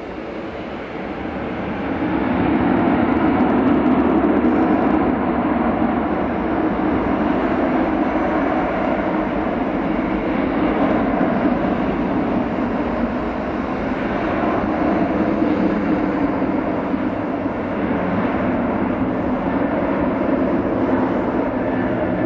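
Jet engines of an Airbus A380 airliner at high power, swelling about two seconds in and then running loud and steady, as on a take-off roll or climb-out.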